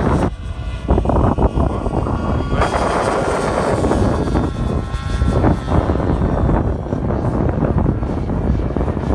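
Strong wind buffeting the microphone, with the motor and propeller of a radio-controlled model aircraft whining in flight; the whine stands out from about two and a half seconds in.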